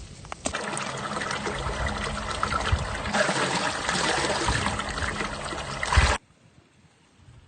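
Water running or pouring steadily, starting about half a second in and cutting off abruptly about six seconds in.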